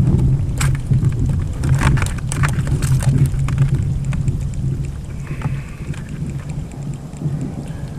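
Kayak underway on open water: a steady, fluttering low rumble of wind and water, with a few light knocks in the first three seconds.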